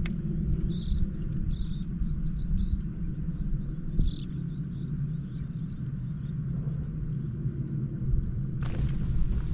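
Steady low rumble of wind on the microphone, with a bird giving short, repeated chirps for the first few seconds. A rush of hissing noise starts near the end.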